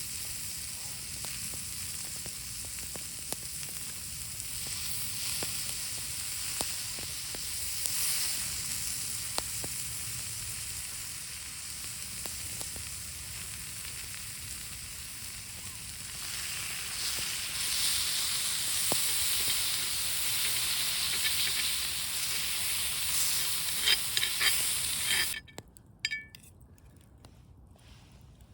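Food sizzling in a pan, a steady hiss with scattered small pops and crackles. It grows louder about two-thirds of the way through, then cuts off suddenly near the end.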